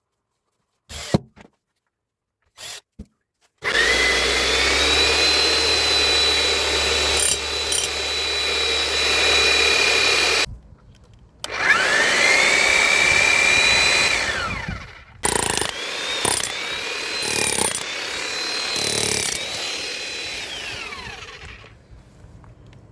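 Hilti TE 905 electric demolition hammer test-run after servicing: its motor whines up to speed and runs steadily for about seven seconds, runs again briefly and winds down, then is started and stopped in several short bursts.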